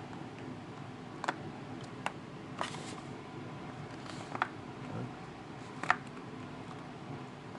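A loose part rattling inside a 2015 MacBook Pro's aluminium case as the laptop is tilted from side to side: a handful of short clicks and knocks, roughly a second apart, the sign of a loose component inside the chassis.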